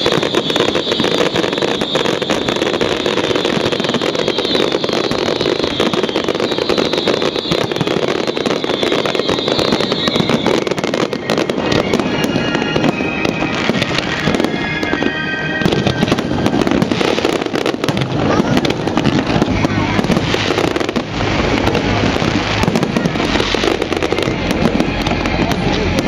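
Close-range fireworks display: a dense, continuous barrage of booming shell bursts and crackle, many shells going off in quick succession.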